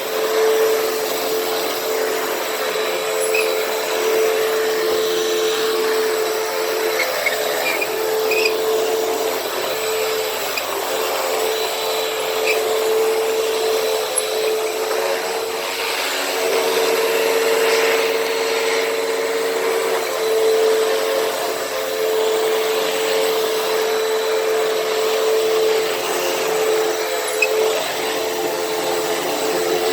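Hoover WindTunnel T-Series upright vacuum cleaner running steadily while vacuuming carpet. Its motor holds one steady whine.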